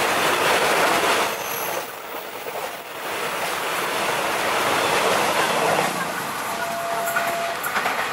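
KRL electric commuter train passing close by: a steady rush of wheels on rail, dipping briefly about two seconds in.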